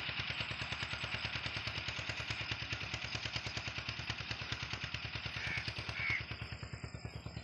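An engine running steadily with a rapid, even chugging beat.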